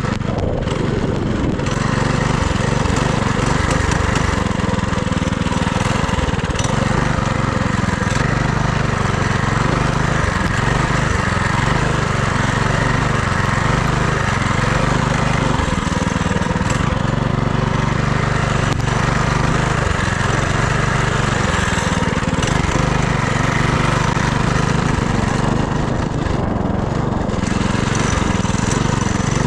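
FRP GMB100 minibike's small single-cylinder engine running under way, its note rising and falling a little with the throttle, over a steady hiss.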